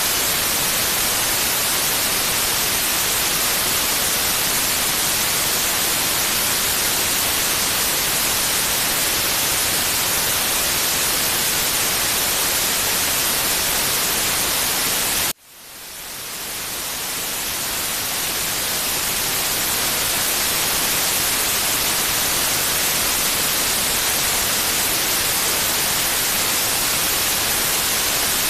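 Steady white-noise hiss, brightest in the treble. About halfway through it cuts out abruptly and then fades back in over a few seconds to its full level.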